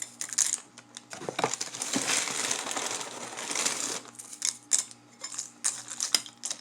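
Apple Pie Toast Crunch cereal squares poured into a bowl: a dense rattling rush through the middle, then scattered sharp clicks of pieces landing.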